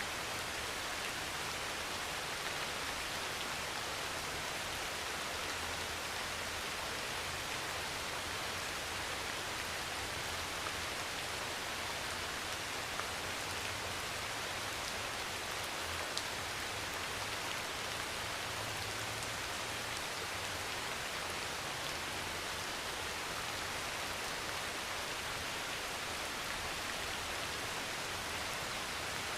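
Heavy rain falling steadily on a thin metal roof, a constant even patter and hiss, with a faint low rumble underneath through the middle.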